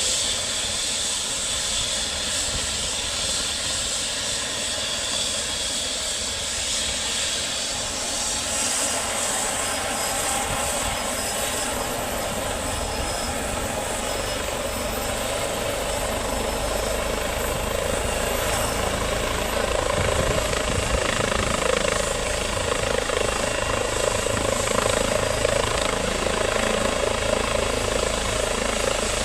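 Helicopter engine and rotor running steadily, growing louder about halfway through.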